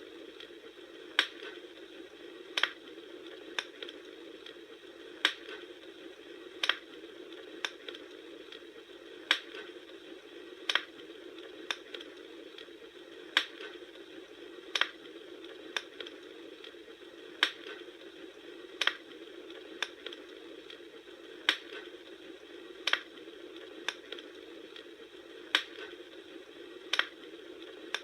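Wood fire crackling: sharp pops about every second and a half, with fainter ticks between, over a steady hiss.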